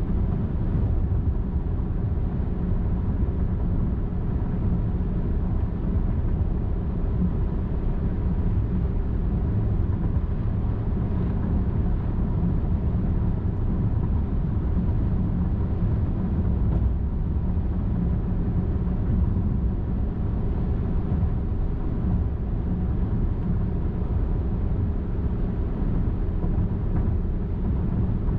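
Car travelling at highway speed: a steady, even rumble of road and engine noise with no sudden events.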